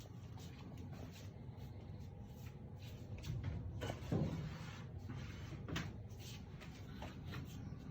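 Scattered knocks and scrapes from a furnace filter and the furnace's filter slot and panel being handled, the loudest clatter about four seconds in.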